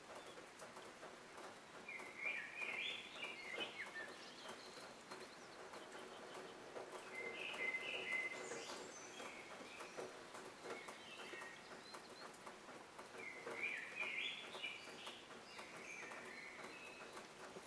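A bird singing faintly in the background: short phrases of chirps that come again every few seconds, with faint light clicks underneath.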